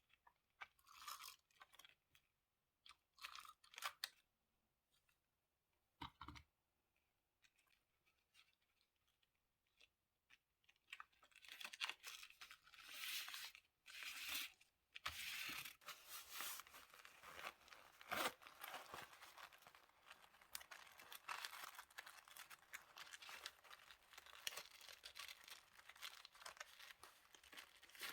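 Paper and stickers being handled for diary decorating: scattered short rustles and light taps, a soft thump about six seconds in, then from about twelve seconds in near-continuous paper rustling with small clicks.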